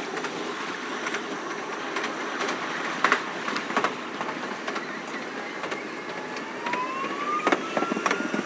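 Running noise of a Keikyu train heard from inside the cab, sped up four times: a steady rushing noise with scattered sharp clicks, and a whine rising in pitch near the end as the train picks up speed.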